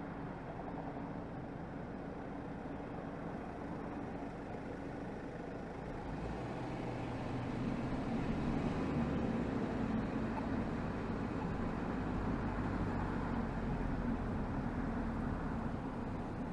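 Exhaust of a BMW 320xd's 2.0-litre four-cylinder turbodiesel (B47D20), heard at the tailpipe while driving. The engine note grows louder about six seconds in and stays up, as with more throttle.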